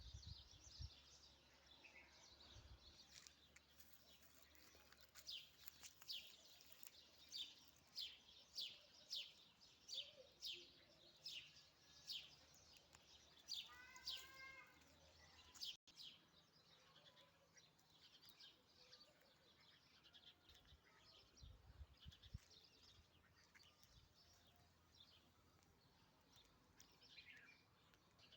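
Faint birdsong: a bird repeats short, high, downward chirps about twice a second for around ten seconds. Fainter scattered bird calls follow after an abrupt cut.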